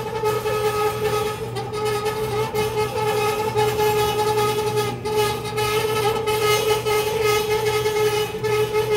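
Faulty clothes dryer running with a loud, steady whining squeal: one held pitch with overtones over a low hum, wavering slightly without a break.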